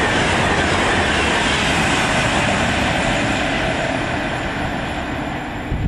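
Express passenger train passing through at speed: a loud, steady rushing noise of wheels and air that eases off slightly near the end.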